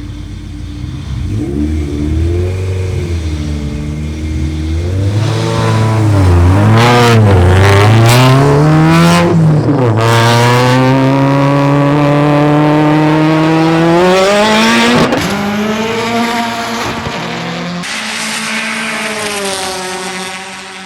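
A street car's engine revving up and down, then accelerating hard through the gears: the pitch climbs steadily with shifts about ten and fifteen seconds in, typical of a roll race launch.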